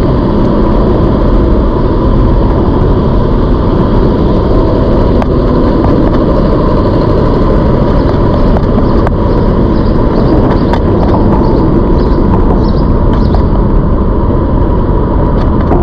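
Steady wind and riding noise from a moving ZOOZ electric bike, buffeting the microphone, with a thin steady whine running underneath and a few light clicks.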